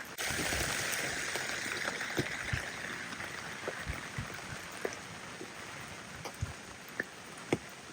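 Rain falling: a steady hiss that slowly fades, with scattered individual drops striking close by, one louder tick near the end.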